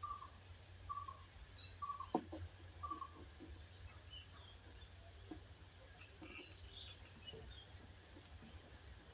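Faint birdsong. A bird repeats a short low note about every 0.7 seconds for the first three seconds, with a sharp click among the notes. Scattered higher chirps from other birds follow, over a steady low hum.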